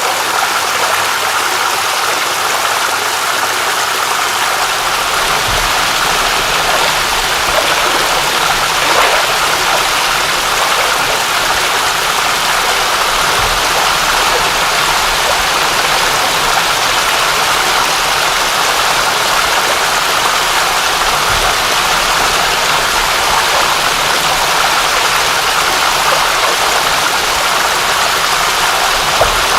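Steady heavy rain: a dense, even hiss of falling water, with faint low thuds about every eight seconds.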